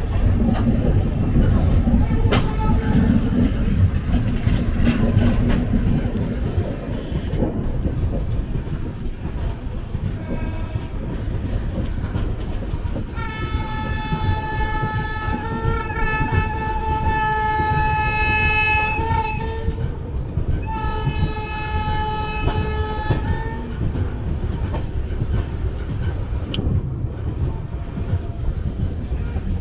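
Train running on the rails with a steady low rumble. A locomotive horn sounds two long blasts about halfway through: the first lasts about six seconds and the second, after a short gap, about two and a half.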